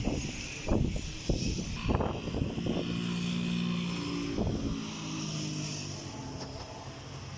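An engine drones steadily past, over a constant high hiss, with wind buffeting the microphone in the first couple of seconds.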